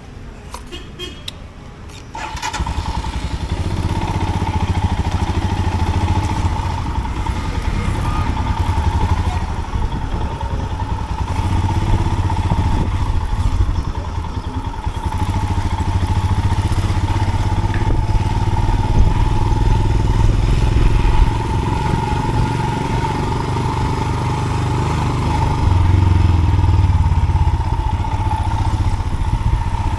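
Royal Enfield motorcycle riding off along a rough dirt road. After a couple of quieter seconds with a few clicks, the engine and riding noise come in loud about two seconds in and carry on steadily, with a steady high tone over the engine.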